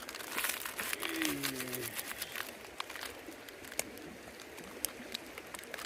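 Sharp, irregular crackling clicks over a steady rush of river water, with a short low hum of a man's voice about a second in.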